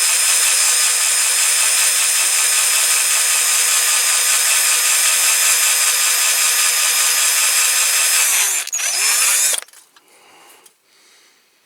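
Small electric drill with a 2.5 mm bit running steadily while drilling out a rivet post on a diecast model car. It stops abruptly about nine and a half seconds in, after a brief dip.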